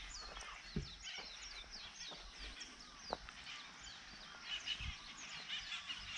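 A flock of wild parrots calling, many overlapping shrill calls that mostly slide down in pitch, with a few faint low knocks among them.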